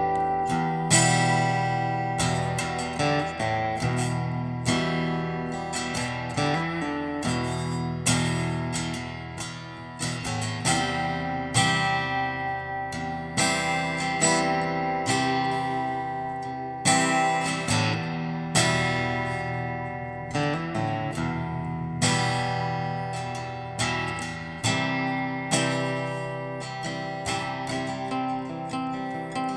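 Background music: acoustic guitar, plucked and strummed, with sustained notes ringing under it.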